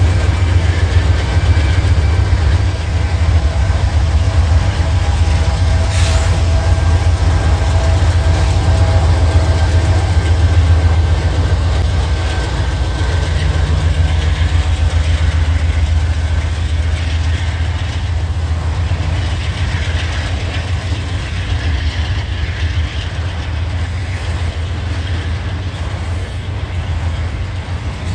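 Norfolk Southern freight train passing close by. Its diesel locomotives run past in the first seconds, then autorack and double-stack container cars roll by with a loud, steady rumble of wheels on rail.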